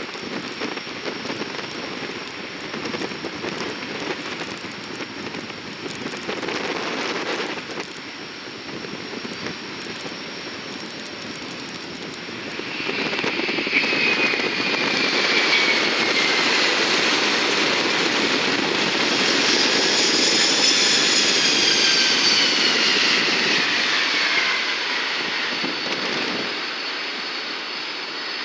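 Jet aircraft passing by: a steady engine hiss grows louder about halfway through, with a high engine whine that slides down in pitch as the plane goes past, then eases off near the end.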